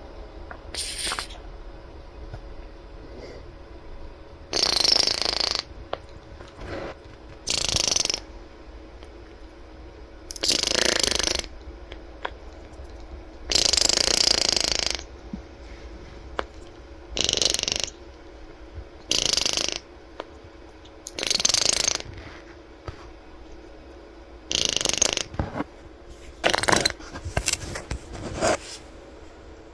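Quaker parrot blowing raspberries: about a dozen separate bursts, each up to a second and a half long, with short gaps between them.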